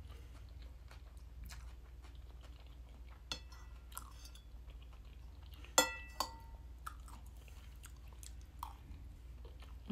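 Close-up chewing and small mouth sounds from eating soy mince egg fried rice. A metal spoon clinks on the plate twice, a ringing clink about three seconds in and a louder one near six seconds.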